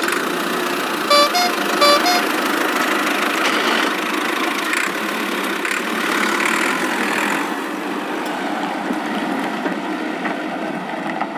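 Vehicle engine running steadily, with two short two-note horn toots about one and two seconds in.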